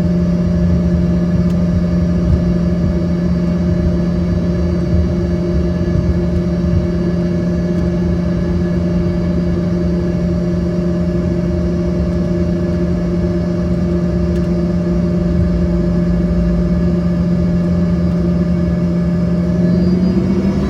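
Embraer ERJ-145's Rolls-Royce AE3007 turbofans running steadily at low power with a low rumble and a steady whine; near the end their pitch begins to rise as they spool up.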